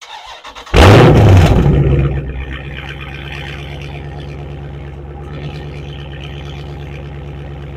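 Dodge Challenger SRT 392's 6.4-litre HEMI V8 starting: a brief crank, then it catches with a loud flare of revs about a second in that drops within a second into a steady idle.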